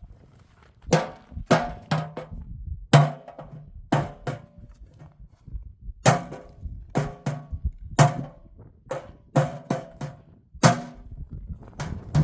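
Repeated sharp blows on a hard object, each with a short hollow ring, about one a second and some in quick pairs.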